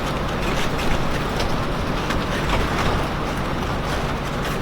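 Mainship 390 trawler under way on its single diesel engine: a steady low engine drone under a continuous rushing noise.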